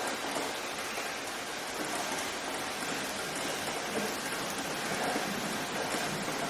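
Steady rain falling and pattering on surfaces, an even hiss without breaks.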